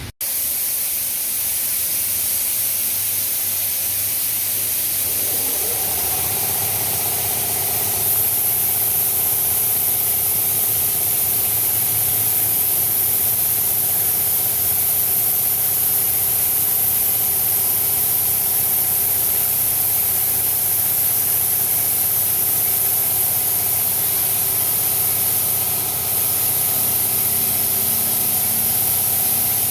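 Steady loud hiss of escaping air, with an engine running underneath; a steady mid-pitched tone joins about six seconds in.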